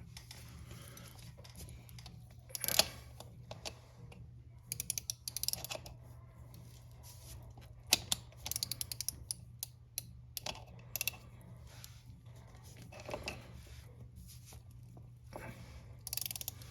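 Hand tools working a motorcycle chain press: quick runs of sharp metallic clicks, like a ratchet being worked, as the press screw is tightened to push the master link plate on. A steady low hum runs underneath.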